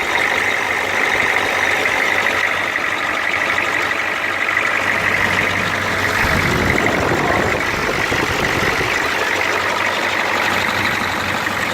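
Ford F-250's 6.9-litre diesel V8 idling steadily soon after a cold start, with a constant high whine over the engine note. A low rumble swells about six seconds in, then eases.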